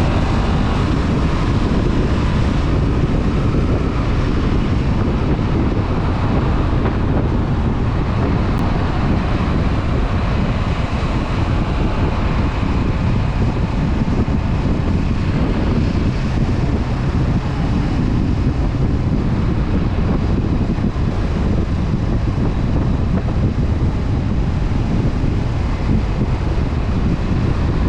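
Steady wind noise buffeting the microphone of a Honda CB500F motorcycle riding at a constant cruising speed, with the bike's parallel-twin engine running underneath.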